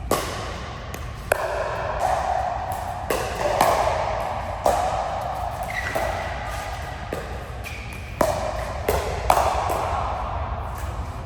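A rally of sharp hits, about one every one to two seconds, each followed by a short ringing ping. Two brief high squeaks come in between.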